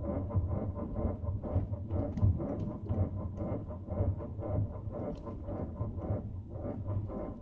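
Continuous irregular creaking, a rapid run of short creaks and clicks with a low rumbling underneath.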